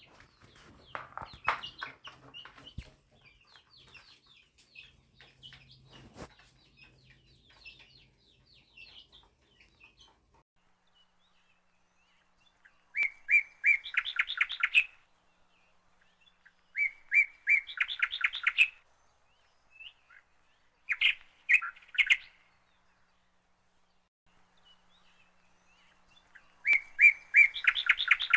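A bird chirping in four short bursts of rapid repeated notes, spaced a few seconds apart through the second half. Faint scattered clicks and chirps come before them.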